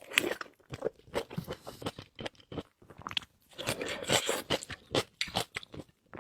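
Chewing of shrimp with fish-roe sauce: many quick, sharp crunches, with a short pause about two and a half seconds in.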